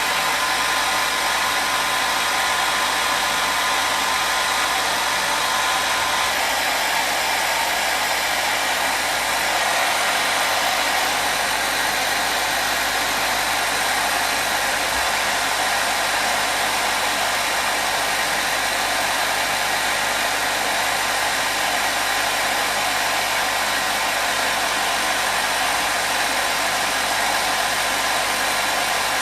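Hair dryer running steadily on one setting: an even rushing hiss of fan and airflow with no change in level. A faint steady whine is mixed in and drops out about six seconds in.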